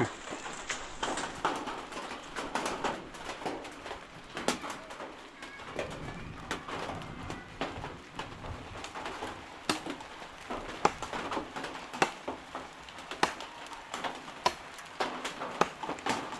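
Irregular sharp taps and knocks, several every second and unevenly spaced, over a faint steady hiss.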